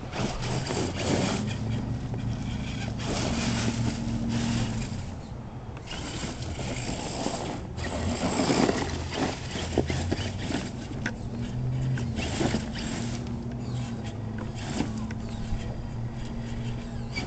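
Redcat Everest 10 RC truck driving: its electric motor whines at low pitch, rising and falling as the throttle changes, while the tires crunch and scrape over the ground with frequent small clicks.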